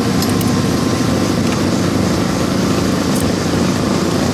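Race car engines running, a steady, dense low rumble with no clear rise or fall in pitch.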